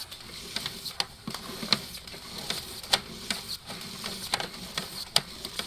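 Irregular sharp clicks and ticks, roughly two or three a second at uneven spacing, over a faint steady hiss, from a sewer inspection camera rig in use.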